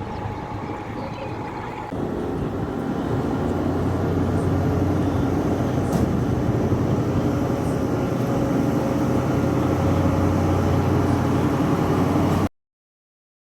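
Motorized bicycle's small engine running steadily, getting louder about two seconds in. The sound cuts off abruptly near the end.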